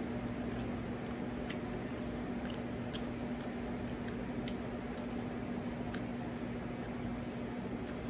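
A person chewing fried chicken close to the microphone: soft wet mouth clicks and smacks at irregular moments, over a steady low hum.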